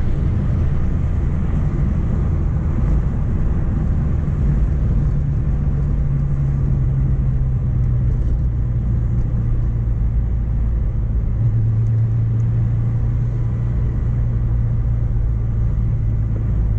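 Mk1 Renault Clio driving along a road, its engine running steadily under road and tyre noise. The engine note drops slowly through the middle and then holds steady.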